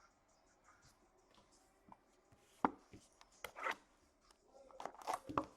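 Trading cards and their packaging handled on a tabletop: a sharp tap about two and a half seconds in, then short handling knocks and rustling that grow busier near the end.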